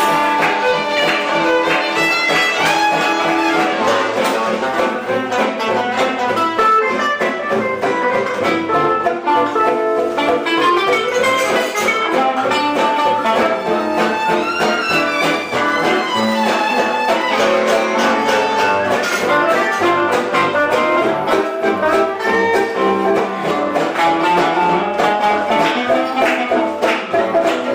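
A live band playing, with violin and guitar carrying the music.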